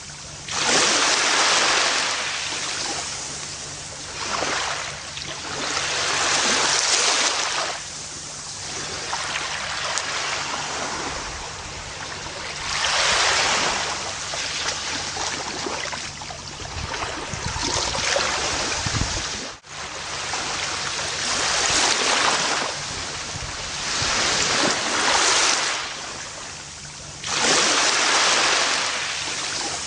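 Gentle ocean waves breaking and washing up a beach, each wave swelling and fading every few seconds. There is a brief sudden gap in the sound about two-thirds of the way through.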